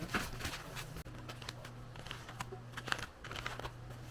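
Crinkling and light clicking of takeaway food packaging being handled, in irregular short rustles, over a steady low hum.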